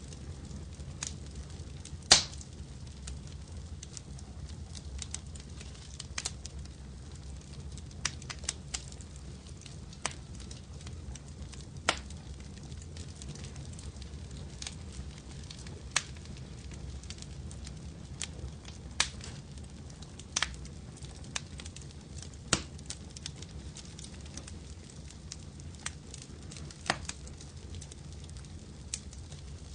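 Wood fire crackling in a fireplace: a steady low rumble of flames with sharp, irregular pops every second or two, the loudest about two seconds in.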